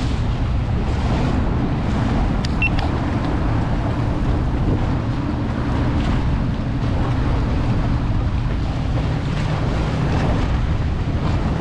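Wind buffeting the microphone over the steady wash of water and boat noise on open water, a dense low rumble with no clear engine note.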